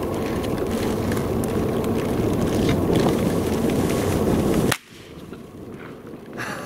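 Loud, steady, low rumbling noise on the microphone that cuts off suddenly about three-quarters of the way through, leaving a quieter outdoor hush.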